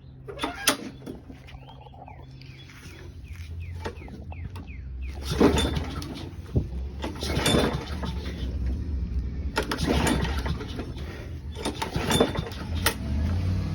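Craftsman lawn mower's engine being pulled over by hand about four times, roughly every two seconds, each pull a short loud stroke, and never catching: the mower won't start on gas alone. Birds chirp in the first few seconds.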